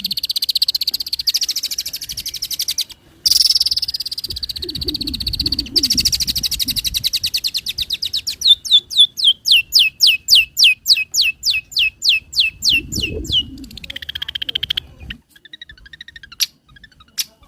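Long-tailed shrike singing a fast, high song full of mimicked phrases. It starts as a rapid buzzy trill with a short break about three seconds in, then becomes a run of sharp, repeated downward-sweeping notes about four a second, and ends in a falling note and a few scattered chirps.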